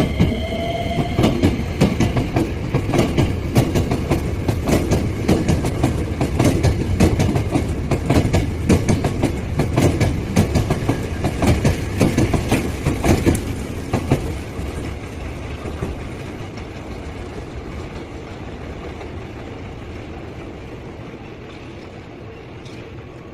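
Hankyu electric trains pulling out of the station: a rising motor whine in the first second, then wheels clattering over rail joints and points in a dense, irregular run of clicks that fades off as the trains draw away.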